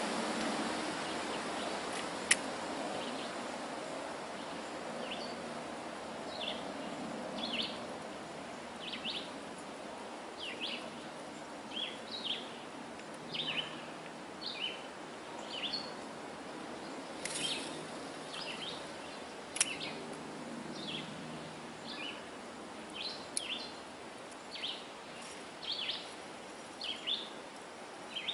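Birds chirping in short high calls, about one a second, over a steady hiss of wind and moving water that eases after the first few seconds. Two sharp clicks stand out, one about two seconds in and one about twenty seconds in.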